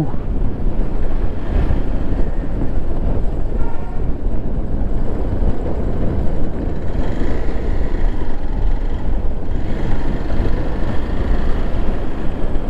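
Motorcycle on the move: wind rushing and buffeting over the microphone, with the engine running underneath.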